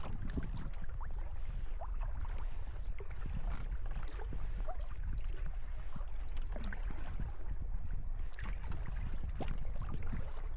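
Sea kayak being paddled: water splashing and gurgling around the paddle and hull in short irregular splashes, over a steady low rumble of wind on the microphone.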